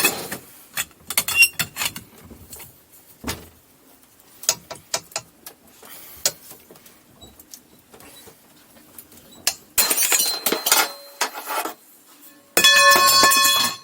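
Metal tools clinking and clanking against engine parts, then two loud rapid rattling runs of about a second each near the end, the last with a metallic ring, as a Polaris 750 SL jet-ski engine is worked on; the engine will not turn over and is thought to be seized.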